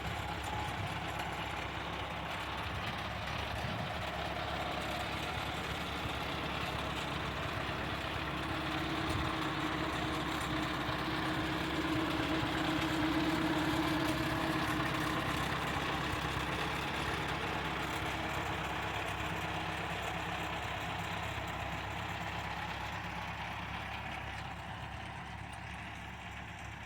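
A tractor engine running steadily with an even low chug. It grows louder toward the middle and then slowly fades, as if it is passing close by.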